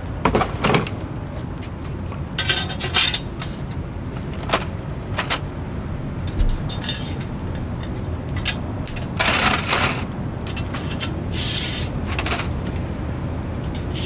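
Irregular clinks and clatters of metal kitchenware being handled, over a steady low rumble.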